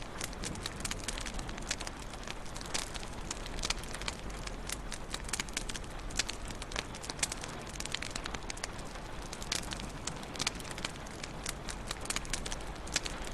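Wood fire crackling in a fireplace: irregular sharp pops and snaps, several a second, over a steady hiss of burning.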